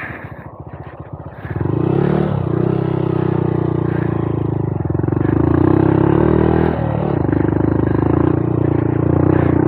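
Honda Monkey 125's single-cylinder four-stroke engine pulling under throttle on a dirt trail. It is quieter at first, opens up about a second and a half in, eases off briefly near the seven-second mark, then pulls steadily again.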